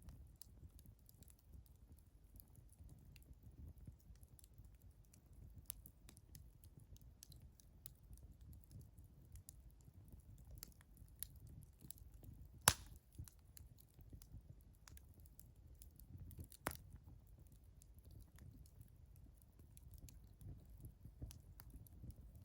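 Wood campfire crackling faintly with scattered small pops, a sharp loud pop about twelve seconds in and another a few seconds later, over a low steady rumble.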